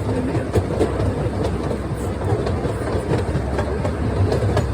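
Small theme-park train running along its track: a steady low rumble with the wheels clacking over rail joints.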